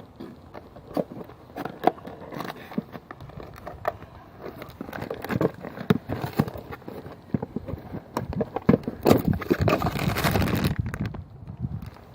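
Handling and unpacking a new ignition coil from its box: a run of small clicks and scrapes, then a louder stretch of packaging rustling and crackling about nine seconds in.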